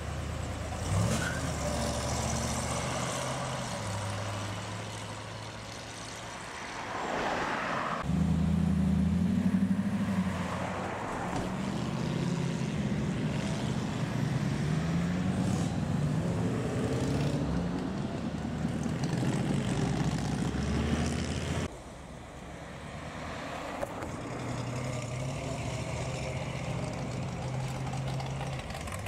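Cars driving away one after another, their engines running and accelerating. A C3 Chevrolet Corvette's V8 revs as it pulls off, and the loudest stretch has engine pitch rising and falling through the gears.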